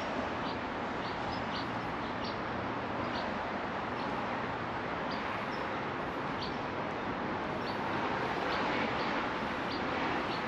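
Birds chirping in scattered short, high notes over a steady rushing background noise.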